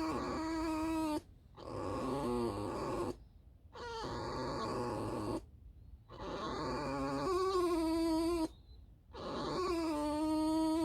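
Pet fox squeaking: a run of about five drawn-out, whiny calls, each a second or two long with brief pauses between, holding a fairly steady pitch that wavers now and then.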